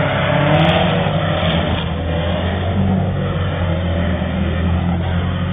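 Car engine revving hard as a compact hatchback launches from a drag strip start line and accelerates away down the track.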